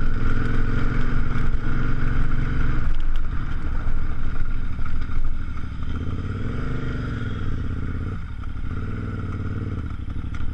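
KTM 990 Adventure's V-twin engine running under way at low speed, heard from the rider's helmet. The note changes about three seconds in, the revs rise and fall around the middle, and the engine eases off briefly near eight seconds.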